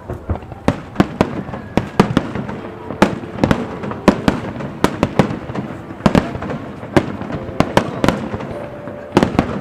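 Fireworks display: aerial shells bursting in a rapid, irregular barrage of sharp bangs, two to three a second.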